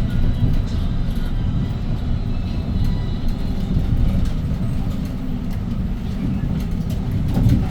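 Hyundai Green City city bus driving, heard inside: a steady low drone from its C6GB CNG engine, with road noise and scattered light rattles and clicks from the body.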